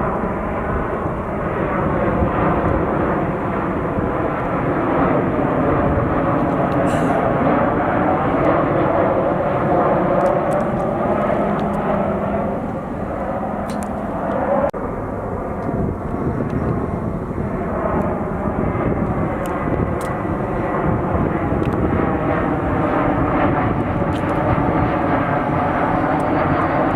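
Jet airliner passing near the airport, its engines making a steady loud roar whose tone sweeps up and down as it goes by.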